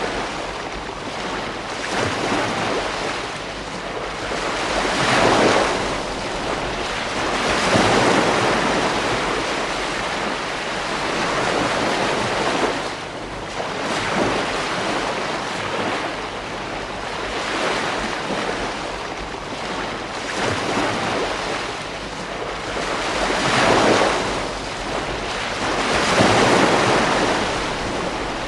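Ocean waves breaking and washing up a beach, the surf swelling into a louder surge every few seconds and easing back between breakers.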